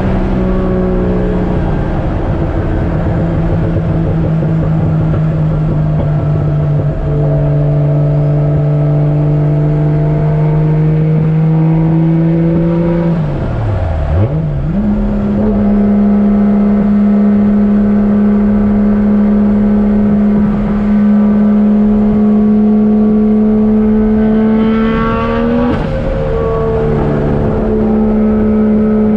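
Toyota 1JZ-GTE VVTi turbocharged straight-six in a Nissan 240SX running under way, its note held steady and slowly rising. About fourteen seconds in the pitch dips sharply and comes back higher, and near the end it climbs and then drops suddenly, as at gear changes.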